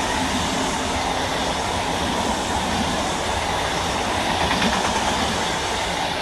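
Express train hauled by a WAP-4 electric locomotive passing at high speed, a loud steady rush of wheels on rail and coaches going by. The noise starts to fade near the end as the train clears.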